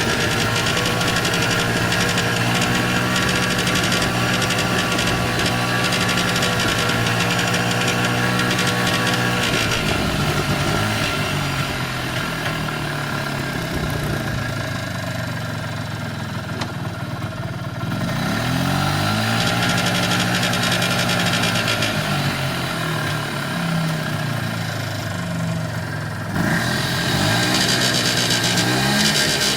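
1994 Polaris Xplorer 300 ATV engine running at steady revs for about ten seconds, then revved up and down several times. The owner reports a buzzing at certain rev ranges and on deceleration since a top-end rebuild, with nothing obvious rubbing or vibrating.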